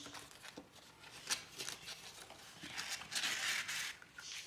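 Paper being handled and rustled, with a few sharp ticks and a short rustle about three seconds in.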